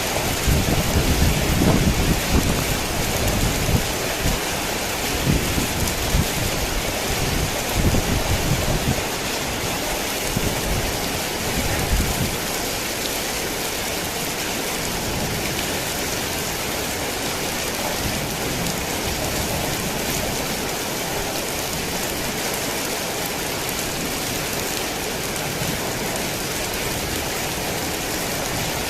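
Heavy rain falling steadily in a dense hiss, with several low rolls of thunder over the first dozen seconds that then die away, leaving only the rain.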